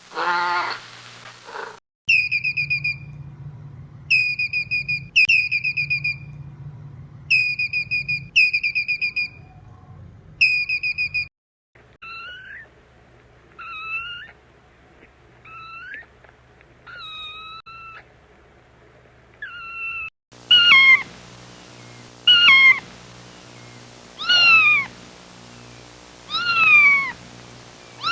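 Kittens meowing in a run of separate clips: a meow at the start, then groups of short, high whistle-like trills, then faint rising and falling mews, and in the last third loud high-pitched kitten mews that slide down in pitch, about one every two seconds.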